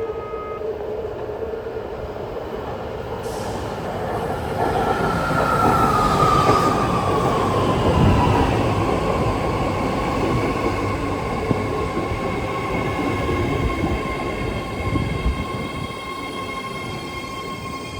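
BART eight-car train pulling into the station and braking. A whine falls in pitch as it slows, and the rail and wheel noise peaks a few seconds in. A steady high whine and rumble then ease off as the train comes to a stop.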